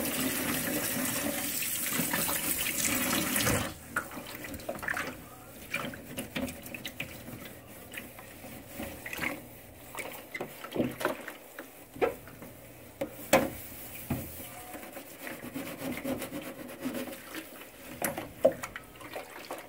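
Water running from a tap into a sink, shut off about three and a half seconds in; after that, scattered knocks and clatters, the loudest about 13 seconds in.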